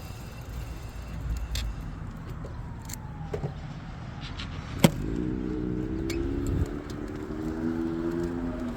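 Low rumble of wind and rolling tyres on a bike ride. About halfway through comes a sharp click, then a motor's pitched hum that rises quickly, holds steady and drops away near the end.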